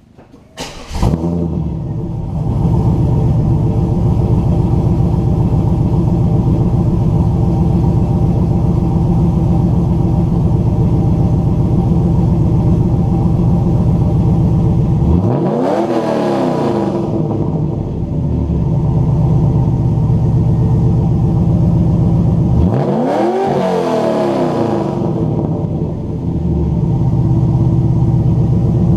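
1998 Pontiac Trans Am's LS1 V8, breathing through long-tube headers, an off-road Y-pipe and Hooker Aerochamber mufflers, starting up about a second in and settling into a loud, lumpy idle. It is revved twice, each rev a quick rise and fall in pitch, some seconds apart, while the engine is cold and running rich in open loop.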